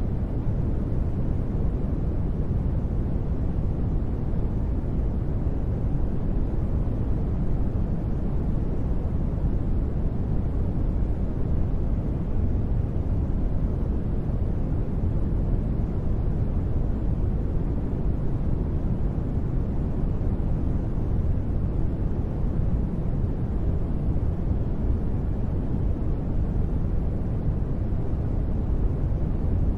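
Continuous white noise for sleep: an even, unbroken noise with most of its weight in the low end, so it sounds deep rather than bright, with no changes or sudden sounds.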